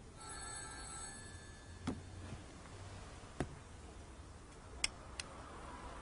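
Four faint, sharp clicks at uneven intervals over quiet room tone, the last two close together near the end.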